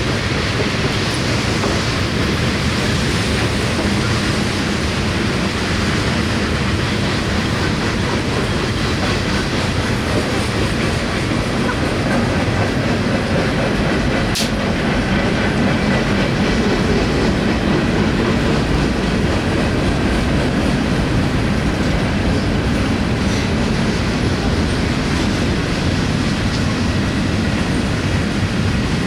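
Freight train cars rolling past close by, with a steady rumble and clatter of steel wheels on the rails and one sharp click about halfway through.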